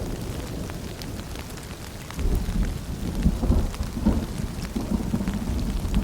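Rain falling and dripping, scattered drops ticking over a steady patter, under a low rolling rumble of distant thunder that swells about two seconds in.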